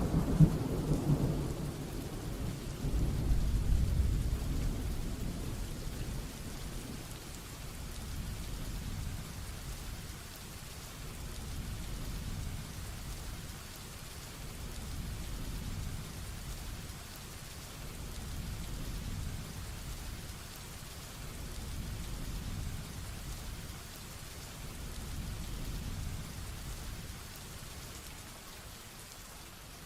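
Heavy rain falling with rumbling thunder. A roll of thunder fades out in the first second or two, another swells around three to five seconds in, and softer distant rumbles follow under the steady hiss of the rain.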